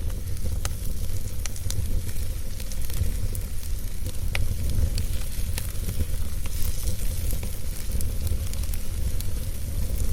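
Wood fire burning with a steady low rumble and frequent sharp crackles and pops of burning wood.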